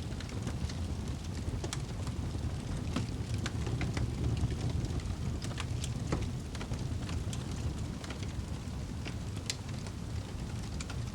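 Wood fire burning in a fireplace: a steady low rumble of flames with scattered sharp crackles and pops, several a second.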